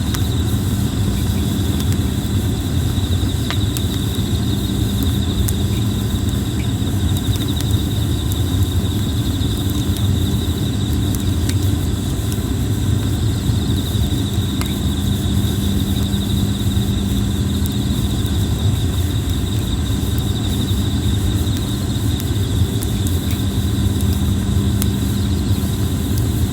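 Red-plum wood burning in a campfire, giving scattered sharp crackles and pops over a steady low rumble, with insects trilling in a steady high band throughout.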